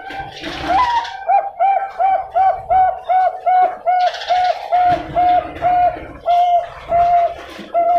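Zebra dove of the Thai-bred 'bangkok' song line cooing: a rising first note, then a rapid run of about fifteen short, even notes, the spacing widening slightly toward the end.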